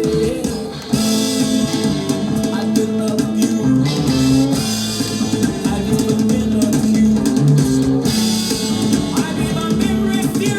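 Rock music: a band with electric guitar and drum kit playing, dipping briefly just before a second in and then coming back in full.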